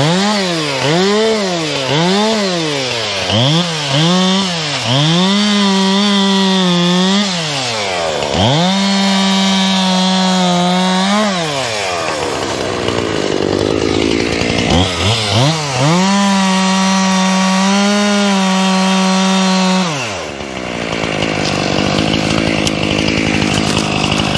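A chainsaw is revved in quick blips, rising and falling about four times. It is then held at high revs three times for two to four seconds each. About 20 seconds in, the revs drop and it runs low and steady.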